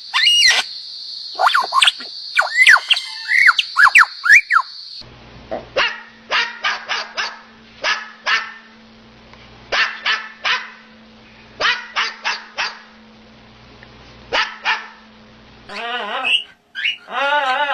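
Dog barking in short, separate barks about once a second, over a steady low hum. For the first few seconds there are rising-and-falling squealing calls over a steady high whine, and near the end a wavering, pitched voice.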